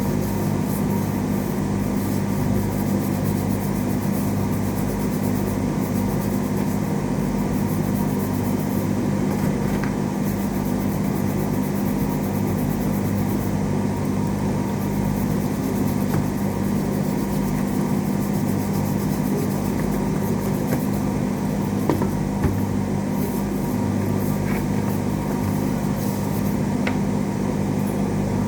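Steady electrical hum with a low drone, unchanging throughout, with a few faint ticks near the end.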